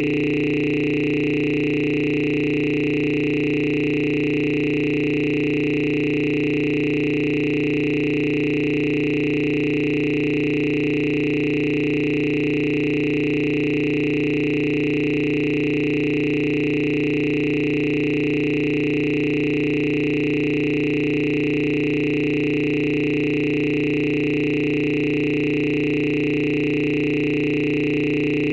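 A steady electronic drone of several pitches held together, unchanging throughout.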